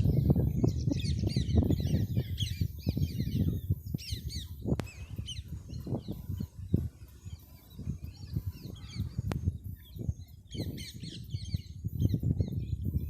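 Parrots chirping in rapid bursts of quick high notes, busiest in the first few seconds and again near the end, over a loud irregular low rumbling and bumping noise.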